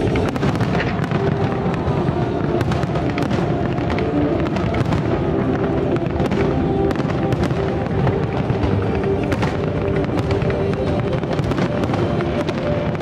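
Fireworks going off with many sharp pops and crackles, and music playing steadily underneath.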